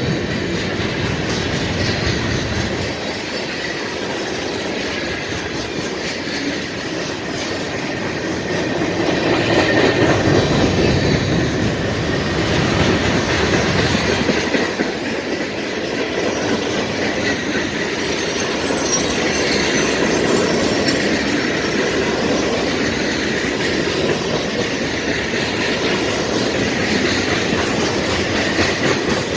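CSX mixed freight train's cars rolling steadily past, wheels clicking over the rail joints, with a faint thin wheel squeal at times.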